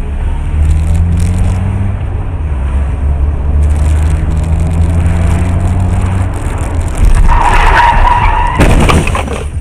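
Car engine running with a low steady hum, then tyres squealing in a skid about seven seconds in, followed near the end by a loud impact.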